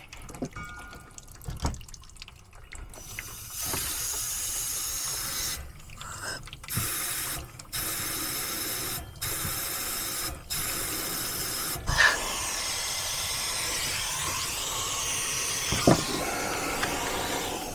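Compressed nitrogen hissing through a cut condensate drain line to clear it, with water in the line. It comes in several short blasts, then one long steady blast from about twelve seconds in, with a couple of knocks along the way.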